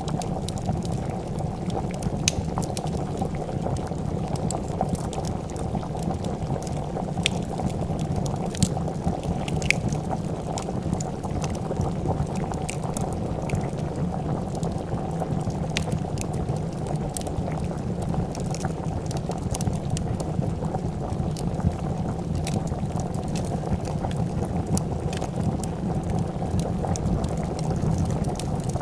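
Pot of soup boiling at a steady bubble, with scattered sharp pops and crackles of a wood fire over it.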